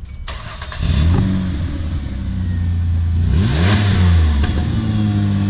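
Ford Escape engine with its muffler cut off, catching about a second in and running loud through the open exhaust, with one brief rev up and back down near the middle.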